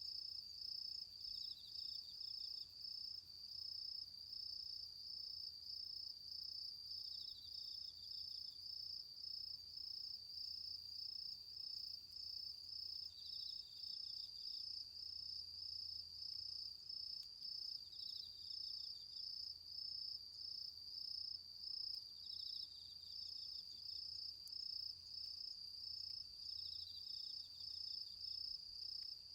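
Autumn insects calling: one insect gives a steady, fast-pulsing high trill throughout, while a second one adds a short, slightly lower trill about every five seconds.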